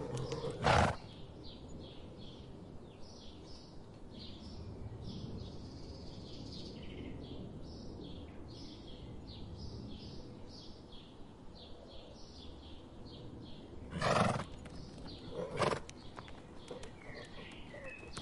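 A horse snorting: short, loud blasts of breath, one near the start and two more about fourteen and fifteen and a half seconds in. Between them, a low steady outdoor rumble with faint, quick high chirping.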